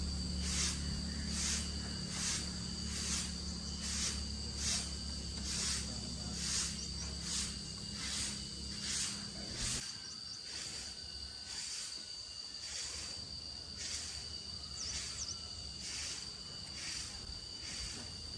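Insects chirping in a steady rhythm, a little over two chirps a second, over a continuous high buzz. Low background music stops about ten seconds in.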